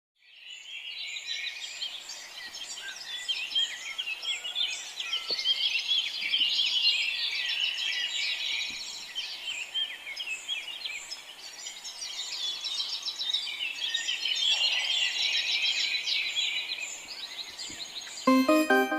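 A group of chicks peeping continuously, many short high chirps overlapping. Music with keyboard notes comes in near the end.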